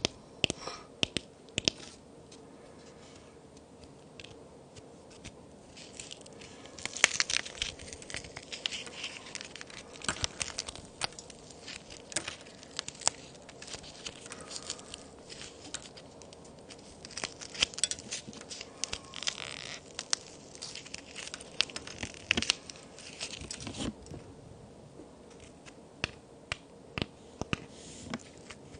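Handmade plaster-and-clay toy cookies being snapped and crumbled: clusters of sharp cracks and crumbly crackling, with quieter pauses between them.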